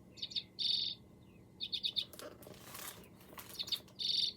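Recorded calls of a common redpoll played back: short bursts of quick, high chattering notes and buzzy calls, repeated several times, with a longer raspy stretch around the middle.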